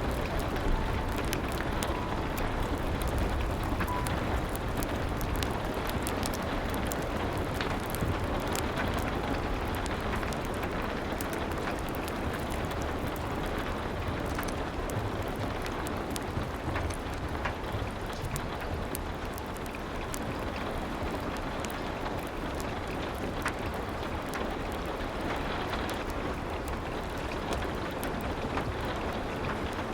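Steady rain with a low rumble, dotted throughout with small sharp crackles and pops like a wood fire burning.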